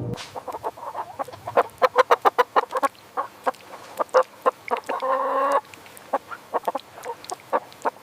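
Chickens clucking in rapid short clucks, with one longer drawn-out call about five seconds in.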